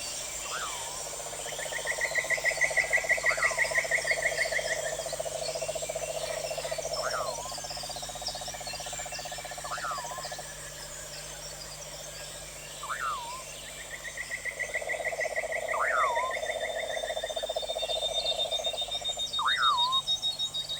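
Pond-side nature chorus: a frog gives long, rapid pulsed trills lasting several seconds, twice, with a higher pulsed trill above it. Short sharp calls repeat about every two seconds, over a steady high insect chorus.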